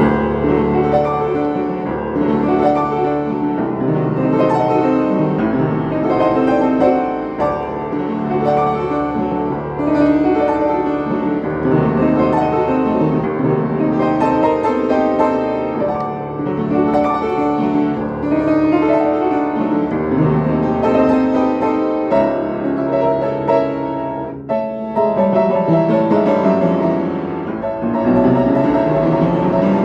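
Piano playing a classical-style prelude in G minor: dense, repeated chords over a low bass line.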